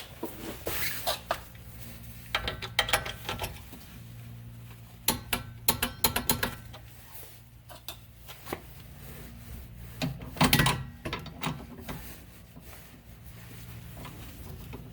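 Hand tools clicking and ratcheting on a nut, in several short runs of sharp clicks, as a torque wrench tightens the stabilizer link nut to 39 foot-pounds. A steady low hum runs underneath.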